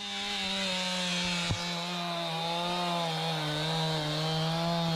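Chainsaw held at high revs, cutting through wood with a steady, slightly wavering pitch; a single sharp knock about a second and a half in.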